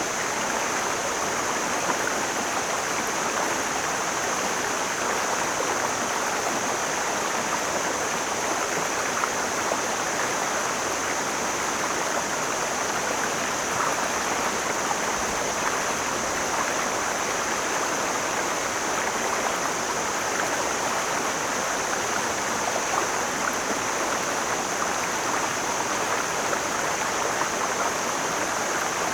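Mountain stream flowing over rocks, a steady rushing of water, with a steady high hiss above it.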